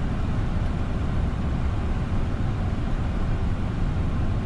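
Steady low cockpit noise of a Boeing 747 on short final: airflow over the airframe and the engines at approach power, with no distinct events.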